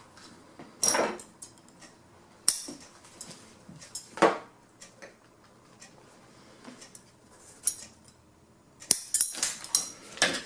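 Scattered sharp clicks and short knocks from handling tools and upholstery material on a workbench, with a quick cluster of them near the end.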